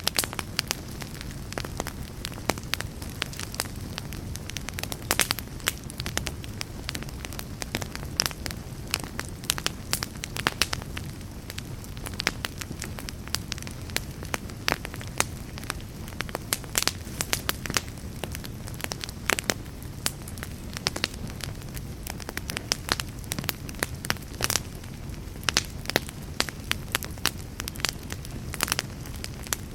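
Wood fire of burning logs crackling: frequent sharp pops and snaps over a steady low rumble of the flames.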